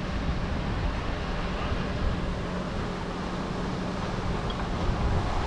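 Crane engine running steadily with a low hum, mixed with wind noise on the microphone.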